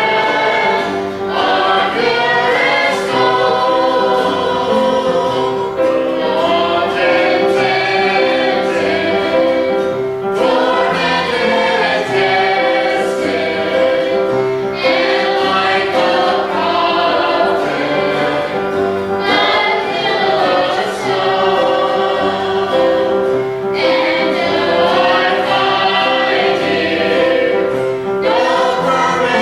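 A small group of voices singing a slow gospel hymn together, in long held phrases a few seconds apart.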